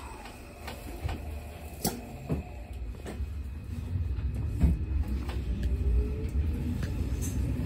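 Hanshin Railway electric train pulling away, heard from inside the passenger car: a low rumble that grows steadily louder, with scattered knocks and a faint rising traction-motor whine over the last few seconds.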